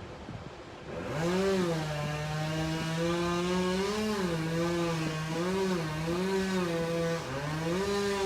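Chainsaw engine running at high speed about a second in, its pitch dipping and recovering again and again as it cuts through the trunk.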